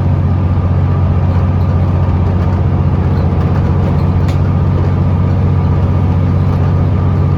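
Scania L94UB bus's diesel engine running at a steady, unchanging pitch, heard as a low drone from inside the cabin.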